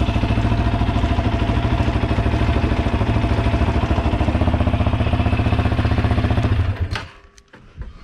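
Vehicle engine idling steadily with a fast even pulse, then shut off about seven seconds in, followed by a couple of sharp clicks.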